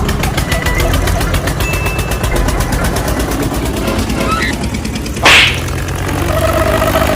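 Rapid, even putt-putt of a small tractor-style engine at about eleven beats a second. About five seconds in there is one short, loud hiss.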